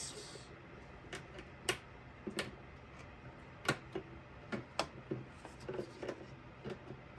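Irregular light clicks and clinks of metal hand tools being handled, a dozen or so sharp taps spread unevenly, as pliers are sought and used.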